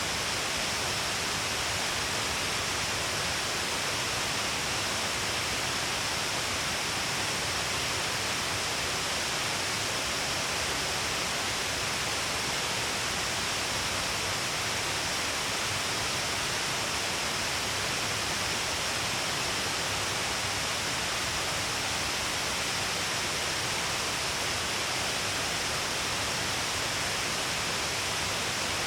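Shiraito Falls, a wide curtain of many waterfalls along a cliff face, pouring with a steady, unbroken rush of water that does not change.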